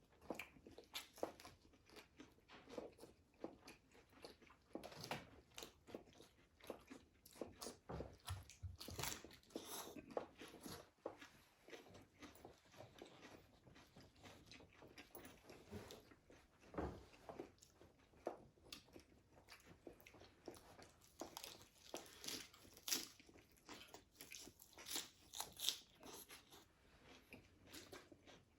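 Close-up chewing and crunching of crispy fried food: a long run of small crunches and mouth sounds, with louder bites at intervals.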